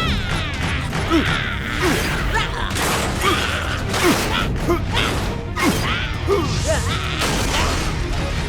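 Animated fight sound effects: a rapid series of mechanical punches and hits, roughly one or two a second, many with a short swooping tone, over background music.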